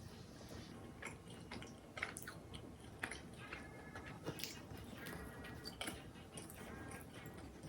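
A person chewing and biting food close to the microphone, with many irregular small crackles and clicks.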